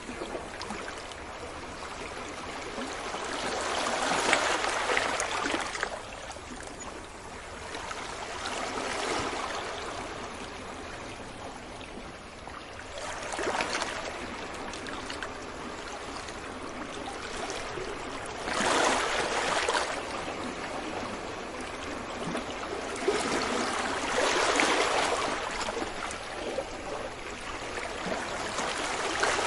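Sea waves breaking gently on a beach, a swell of surf washing in about every five seconds over a constant background wash.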